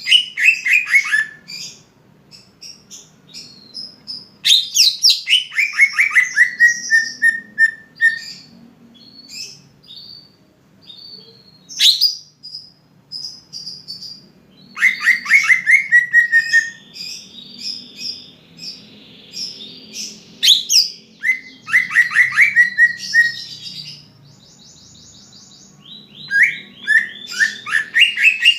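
Cucak ijo (green leafbird) singing: about five phrases of rapid notes, each run sliding down in pitch, with short high chirps between them.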